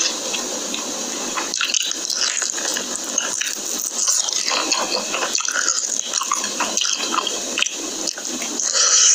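Close-miked eating sounds: continuous wet chewing, full of small smacks and crackles.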